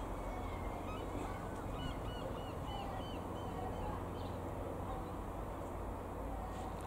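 Birds calling: a quick run of short, repeated arched calls about a second and a half in, with fainter calls later, over a steady low rumble of outdoor background noise.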